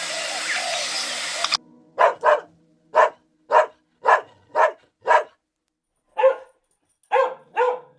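A dog barking about ten short, separate barks, some in quick pairs. A dense, busy sound from the previous clip cuts off about a second and a half in, before the barking starts.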